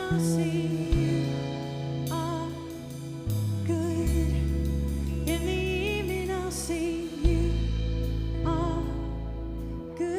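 Live worship band playing a slow song: sustained low chords that change every second or two under a singer's wordless, wavering vocal runs.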